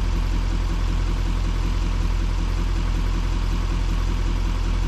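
Truck engine idling steadily, a constant low rumble.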